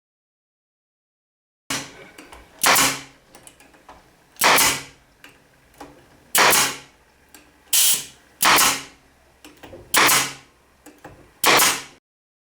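Seven sharp, repeated strokes of a hand tool working wood, each under half a second long, with faint small clicks between them, starting about two seconds in.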